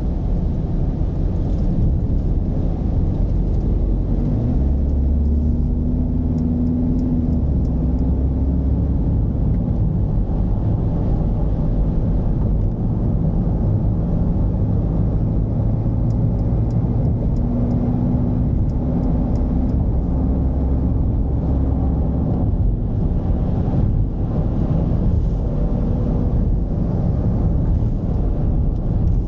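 Mercedes-Benz V220 d van's four-cylinder diesel engine pulling under way, over steady road rumble; the engine's hum comes up clearly twice, about five seconds in and again past the middle.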